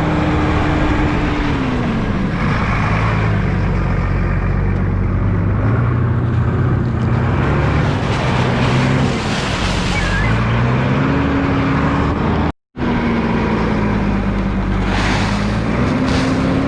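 An engine running under changing load, its pitch rising and falling several times, with wind rushing over the microphone. The sound drops out for a moment about two thirds of the way through.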